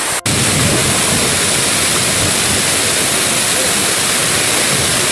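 Waterfall: a steady, loud rush of falling water, with a momentary break just after the start.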